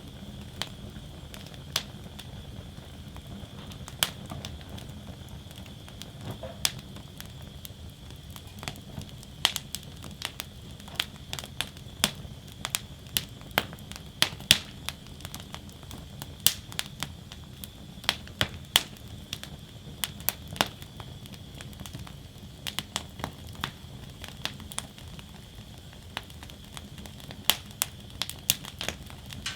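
Wood fire burning in a fire basket, crackling with irregular sharp snaps and pops over a low steady rumble and an even hiss.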